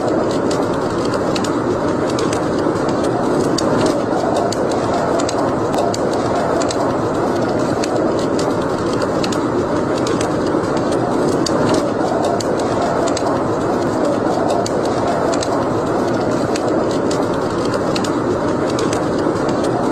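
Wood fire crackling in a fireplace: frequent sharp pops and ticks over a steady rushing noise.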